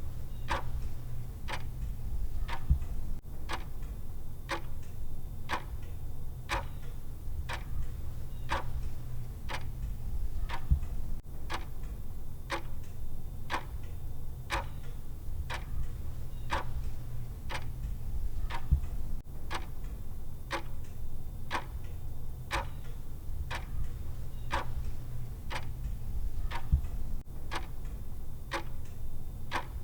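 Countdown timer's clock-style tick sound, an even tick about once a second, over a steady low hum.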